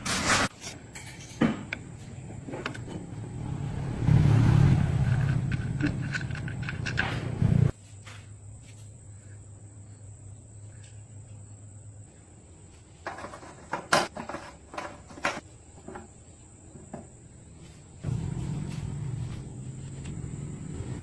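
Workshop noises: scattered knocks and clicks, and a motor running twice for a few seconds, the first run cutting off suddenly.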